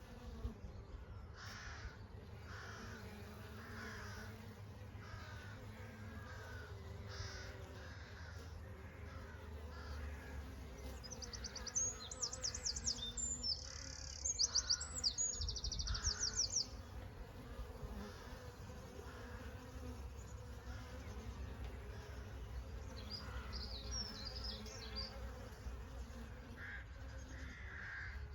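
Honey bees buzzing in a steady low hum, with birds chirping over it. About halfway through, a bird gives several rapid high trills, the loudest sound here, and more high chirps follow later.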